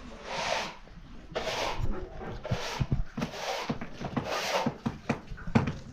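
Hand saw cutting wood in slow strokes, about one a second, with light knocks between the strokes.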